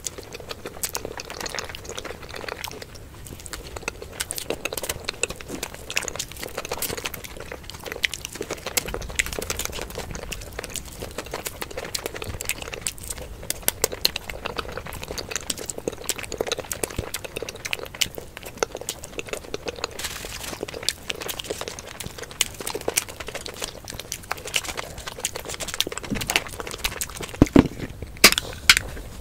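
Close-miked eating sounds: wet chewing, lip smacks and squelching of saucy momos, a steady patter of small clicks and crackles. About a second before the end, a few sharper clicks as an aluminium soda can is cracked open.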